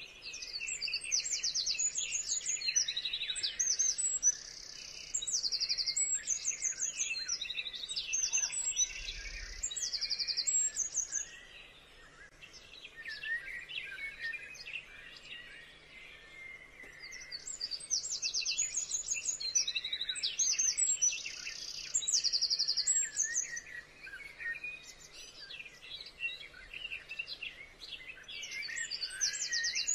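A bird singing long, rapid phrases of trills and buzzy notes in loud bouts, pausing twice. Softer chirping from other birds fills the pauses.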